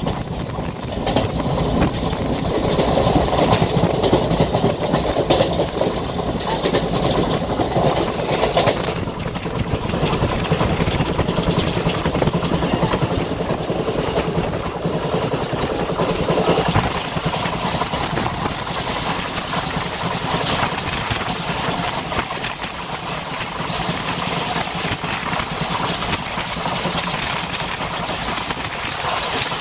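Passenger express train running along the track, heard on board: a steady rumble and rattle of the coach, with the wheels clattering over the rails.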